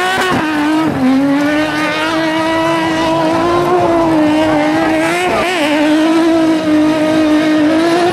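Car engine held at high revs while the car spins donuts, its pitch nearly steady with brief dips about a second in and around five seconds in.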